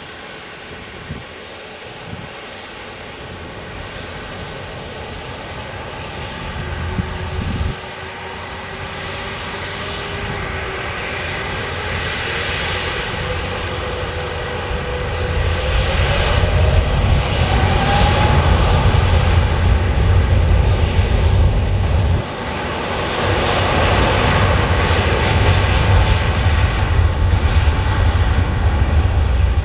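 Airbus A350-900's Rolls-Royce Trent XWB jet engines at high power for takeoff. A whine rises in pitch over several seconds, then a deep rumble grows steadily louder.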